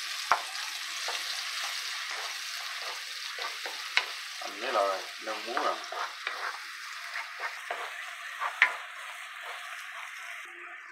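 Chilli and garlic paste frying in hot oil in a nonstick wok, sizzling steadily while a wooden spatula stirs and scrapes through it. The spatula knocks sharply against the pan three times, about a second in, midway and near the end.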